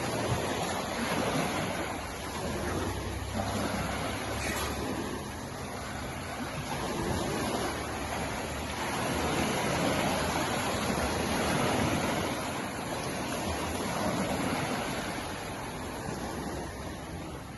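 Pacific Ocean surf washing on the shore: a steady rush of water that swells and eases over several seconds.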